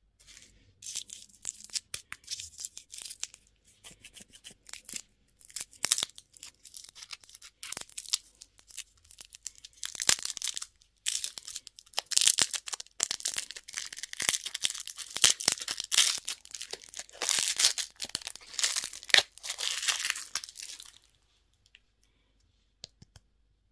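Plastic candy wrapping being torn and crinkled open, a dense run of crackling that stops shortly before the end.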